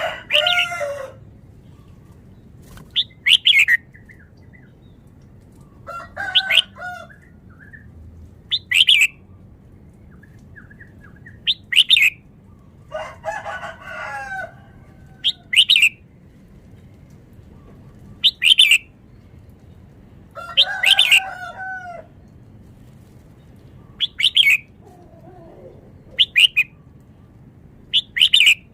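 Red-whiskered bulbul singing in separate short bursts every two to three seconds. Brief sharp whistled notes alternate with longer warbled phrases of several notes.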